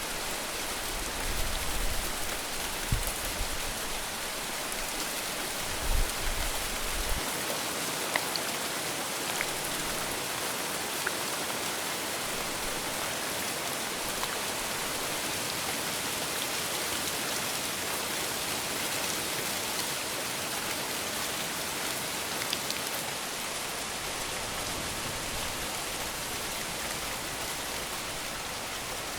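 Steady rain falling and pattering on a surface, with a few brief low thuds or rumbles in the first several seconds.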